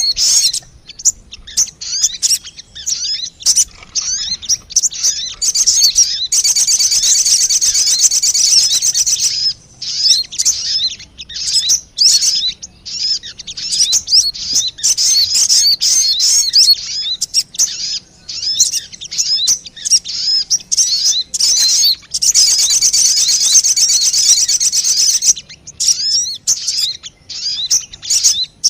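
Lure-call recording of sogon birds: rapid, high-pitched chirping and twittering, with scattered short chirps broken by two long, dense trilling passages, one about a quarter of the way in and one about three-quarters of the way in.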